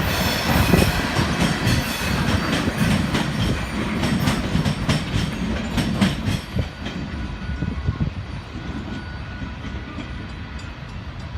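Freight cars of a Union Pacific gravel train rolling past, wheels clicking rhythmically over rail joints over a steady rumble; the sound thins out and fades about two-thirds of the way through.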